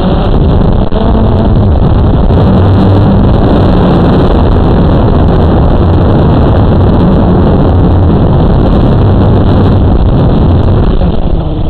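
Wind buffeting the microphone over the buzz of a Blade 350 QX2 quadcopter's four electric motors, their pitch wavering up and down as the drone holds against the gusts.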